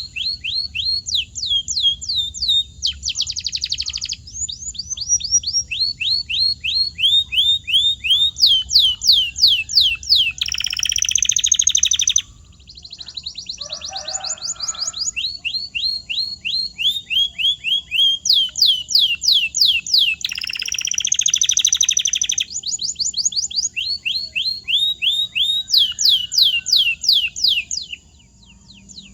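Domestic canary singing: fast runs of repeated downward-sweeping whistled notes, twice giving way to a harsher buzzing roll. A faint low hum runs underneath.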